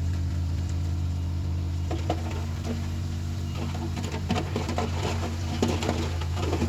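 Komatsu D31PX bulldozer's diesel engine running with a steady low drone. Irregular clanks and rattles come in about two seconds in and grow busier near the end.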